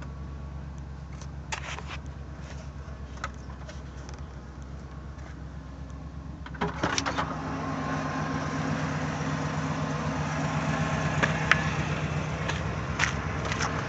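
1973 Pontiac Catalina's V8 idling with an even, steady pulse. About seven seconds in the sound grows louder and fuller, with a few light clicks along the way.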